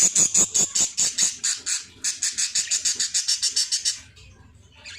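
Baby birds calling: a rapid string of short, high chirps, about six a second, with a brief break about two seconds in, stopping about four seconds in.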